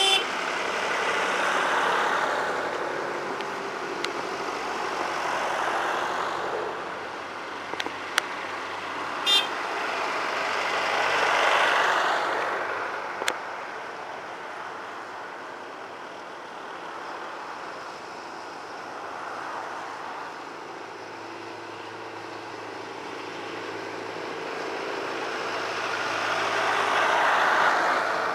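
Tractors driving past one after another, each engine swelling up and fading away, with a short high horn toot about nine seconds in.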